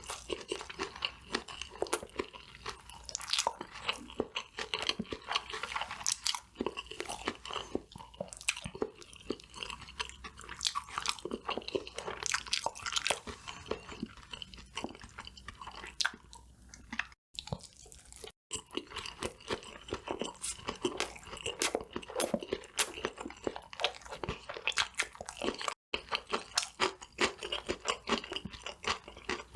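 Close-miked biting, crunching and chewing of crispy fried KFC food, a dense stream of small crisp crunches. The sound drops out completely three times for an instant.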